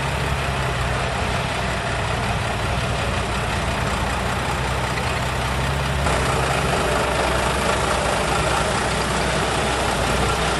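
Heavy truck engine running steadily at a low idle-like speed, with a change in the sound about six seconds in.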